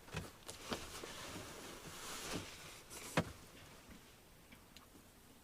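Rustling and scattered knocks of wet leather combat boots being handled and hung up to dry, with one sharper knock a little after three seconds.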